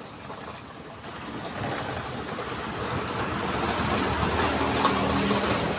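Road traffic noise, with tyre and engine sound swelling as a vehicle draws closer, loudest near the end, where a low engine hum comes through.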